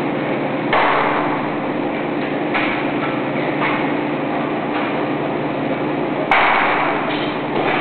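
Shipyard work noise: a steady machinery hum with sudden loud bangs, one about a second in and one near the end, each ringing out for about a second.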